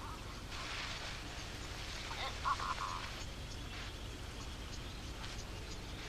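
Yellow-throated sandgrouse giving short, wavering calls, with a rush of noise during the first few seconds and faint insect-like clicking toward the end.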